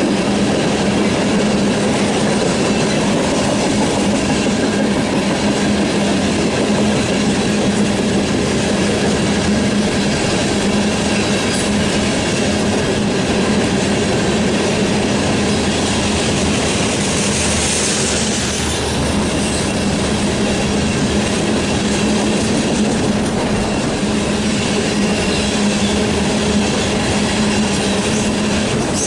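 Freight train cars rolling steadily past on the rails, a continuous loud rumble and clatter of wheels, with a brief high squeal about eighteen seconds in.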